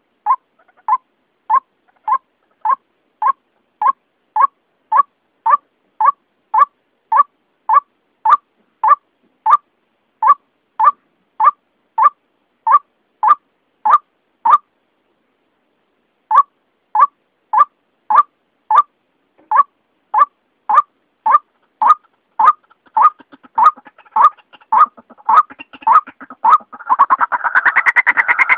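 White-breasted waterhen (ruak-ruak) calling: a monotonous series of short single notes, about two a second. They break off for under two seconds midway, then resume and build into a fast, louder chatter near the end.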